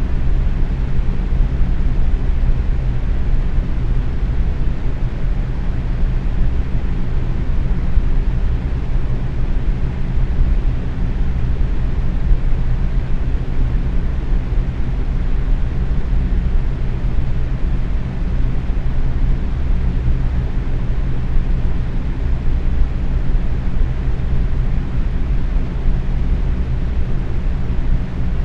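Box fan running steadily at medium speed: an even, low whooshing rush of moving air with a faint underlying motor hum.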